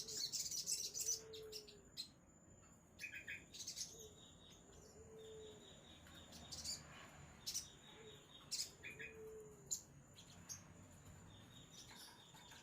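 Sogon (crimson sunbird) singing: a dense run of high, rapid chirps in the first couple of seconds, then short, sharp chirps roughly once a second.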